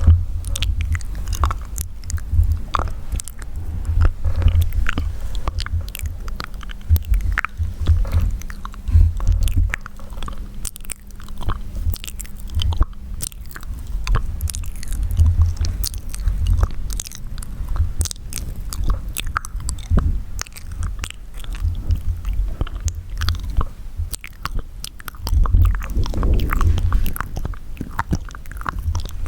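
Close-miked wet mouth sounds: many quick, irregular clicks and smacks of lips, tongue and saliva, over a low rumble that comes and goes.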